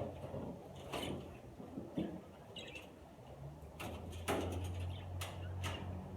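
Budgerigar fluttering and chirping briefly while held in a catching net, with several sharp knocks and rustles from the net being handled.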